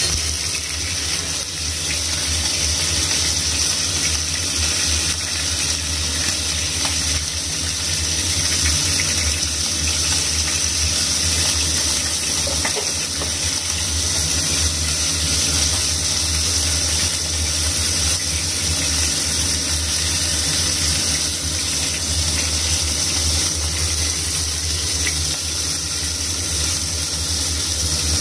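Steak sizzling steadily in hot oil in a frying pan, over a steady low hum.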